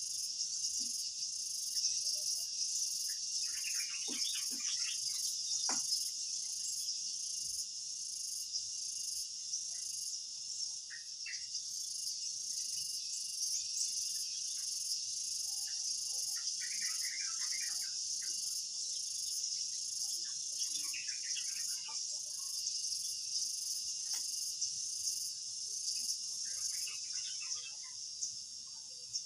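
A steady insect chorus, a continuous high chirring, with short clusters of chirps every few seconds.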